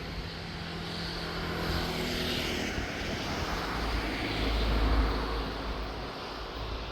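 A motor engine droning past, its steady hum growing louder to a peak about five seconds in, then fading.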